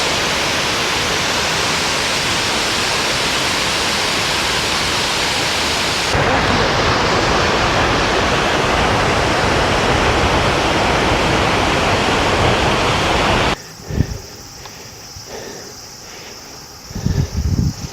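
Steady rushing roar of Shiraito Falls, the water of many cascades falling. About six seconds in it switches abruptly to a louder, deeper rush, and about two-thirds of the way through it cuts off to a much quieter scene with a knock and, near the end, uneven low rumbles.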